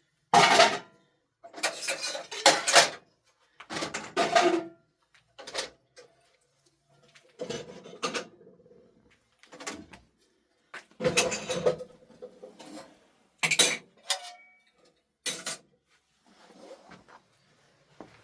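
Metal dishes and pots being handled and knocked together, a string of short clatters with pauses between them.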